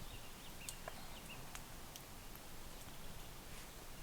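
Faint outdoor ambience at a forest camp: a low hiss with a few soft, sharp clicks and some short, faint high chirps in the first second or so.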